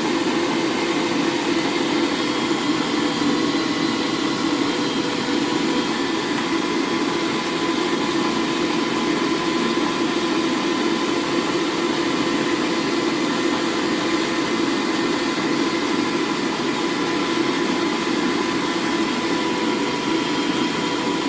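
Electric meat grinder running steadily as it grinds pork, a constant motor hum with a high whine.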